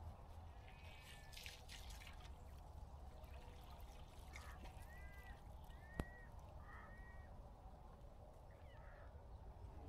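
Near-silent outdoor ambience with a low steady rumble, a few short bird calls that rise and fall in pitch in the middle, and one sharp click about six seconds in.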